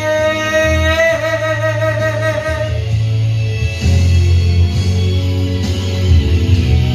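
A singer's held final note with vibrato, fading out about three seconds in, over a guitar and bass backing track that carries on as the instrumental outro of the worship song.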